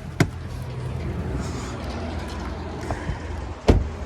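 Steady low wind rumble on the microphone, with a sharp knock just after the start and a louder thump near the end.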